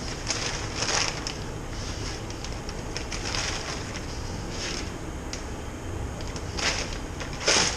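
Bags of malt rustling and crinkling as grain is handled: a run of short, irregular rustles, the loudest near the end.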